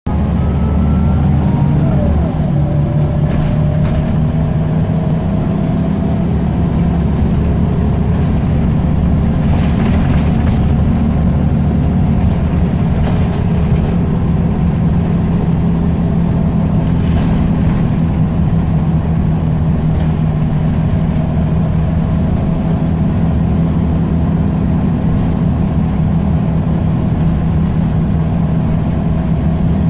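Scania L94UB single-deck bus engine running steadily, with a pitch that rises over the first few seconds as it picks up speed. There are brief rattles around ten and seventeen seconds in.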